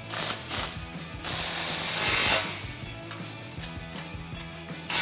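Cordless power tool running the nut down on an exhaust band clamp, in a couple of short bursts and then a longer run of about a second, over background music.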